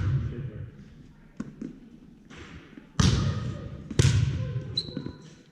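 Heavy thuds: one at the start, then two about a second apart around three and four seconds in, each dying away quickly, with lighter knocks between and a brief high squeak near the end.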